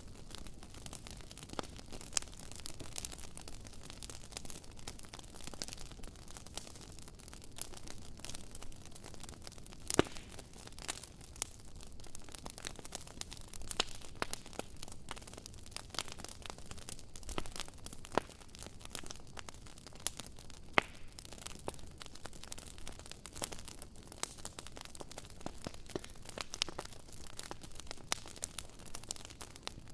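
Wood fire burning, crackling and popping at irregular intervals over a low hiss, with a few louder pops.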